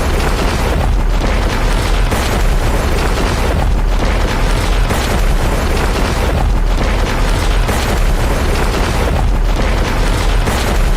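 Loud, continuous roar of a tornado's wind, heaviest in the deep rumble, with no let-up.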